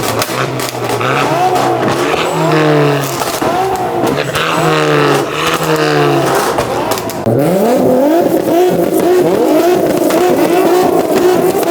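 Car engine revved hard in repeated blips, rising and falling several times. Then it runs up once and is held bouncing against the rev limiter, the crackling stutter of a car being 2-stepped.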